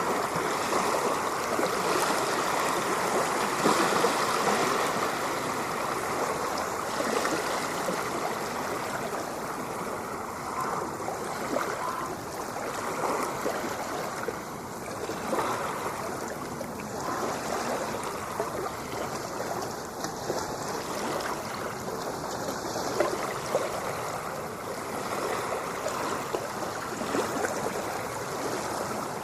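Ocean water washing and lapping in a continuous rushing, fizzing wash, slightly louder for the first few seconds.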